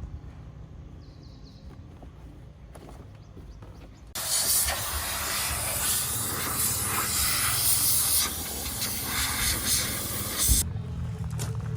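Steam cleaner's jet hissing loudly and evenly as it is sprayed over an engine bay, starting abruptly about four seconds in and cutting off near the end. A low hum runs underneath before the jet starts.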